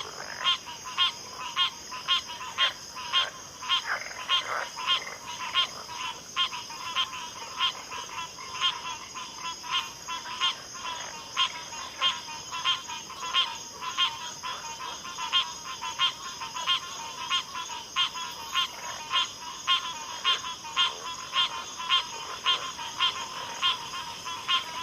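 A backwater frog chorus: short calls repeat about twice a second, over a steady high-pitched hum. Other lower croaks join in the first few seconds.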